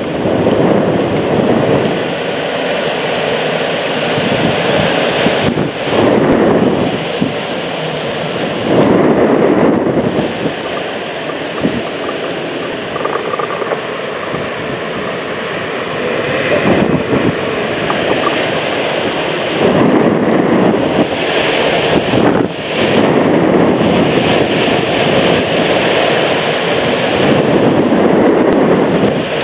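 Thunderstorm: heavy rain and gusty wind, with wind buffeting the camera microphone. The noise is loud and steady, swelling and easing in surges every few seconds.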